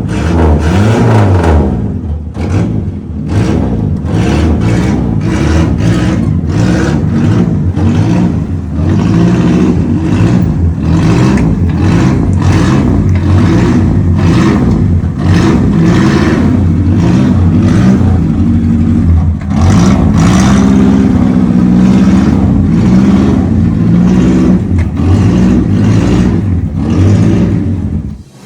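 Off-road car's engine running loud and being revved repeatedly, its pitch rising and falling with each blip of the throttle.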